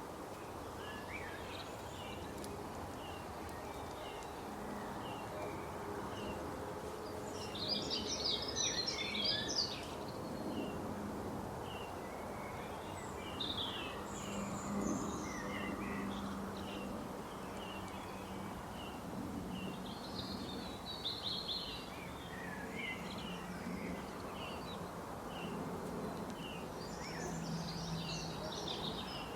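Forest birdsong: several birds calling, with short chirps repeating steadily throughout and louder bursts of fuller song several times, over a steady background hiss.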